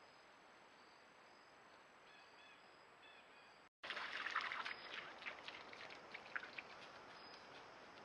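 Outdoor ambience: a faint steady hiss with a few soft bird chirps. After a brief dropout about four seconds in, a louder patch of crackling rustle comes in and tapers off over a few seconds.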